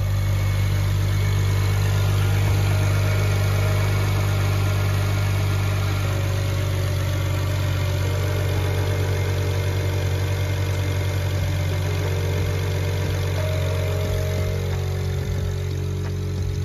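BMW N54 3.0-litre twin-turbo straight-six running at a steady idle, with the hood open, just after a coolant hose repair and refill while it is checked for leaks.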